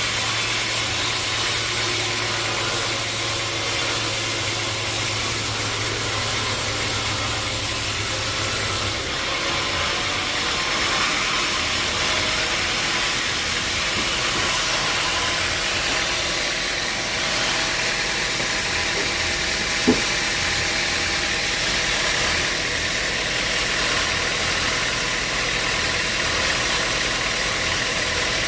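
Sawmill machinery running steadily, an engine-like hum with hiss. Its tone changes about nine seconds in, and there is one short click about twenty seconds in.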